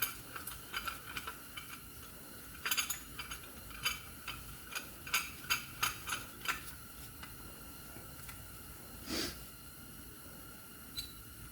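Brake caliper pistons being cranked back in with a piston compressor tool: a run of uneven small metal clicks for the first seven seconds or so, then a brief swish about nine seconds in. The final cranking makes sure the pistons are fully seated for the new pads.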